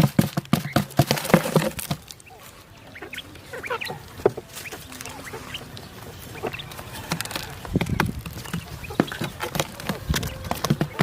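Poultry calling in short bursts, with many sharp knocks and rustling throughout, densest in the first two seconds and again in the second half.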